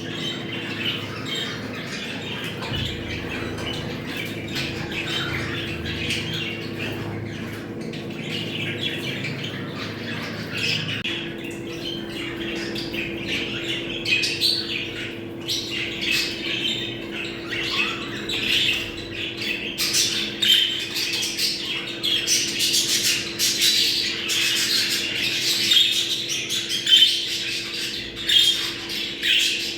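A flock of budgerigars chattering, warbling and squawking continuously, the kind of excited breeding-season chatter used to get budgies into breeding condition. The chatter grows louder and busier about halfway through, over a steady low hum.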